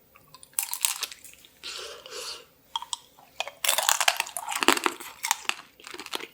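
Close-miked crunching and chewing of tanghulu, the hard candied-sugar shell on the fruit cracking between the teeth. It comes in bursts of crackling, densest in the second half.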